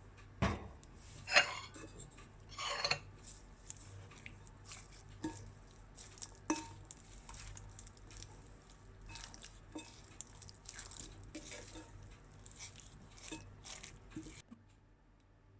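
Curd rice being stirred and mixed in a bowl: a utensil clinking and scraping against the bowl, with three louder clinks in the first three seconds, then softer scattered taps.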